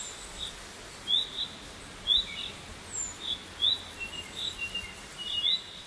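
Birds chirping: short, rising chirps about once a second over a steady hiss, with softer, lower chirps joining in during the last couple of seconds.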